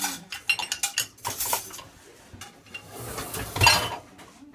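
Dishes and silverware clinking and knocking as they are loaded into a dishwasher's racks, in a quick run of clicks. About three seconds in comes a longer, louder rattling clatter.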